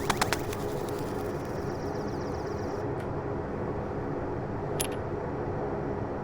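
Laser engraving machine running with a steady fan and motor hum. A few sharp clicks come at the very start and one more sharp click about five seconds in.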